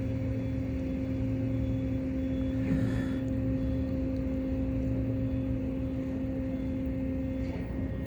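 A steady low mechanical hum with a few fixed tones, like an engine or machine running. One of the tones drops out near the end.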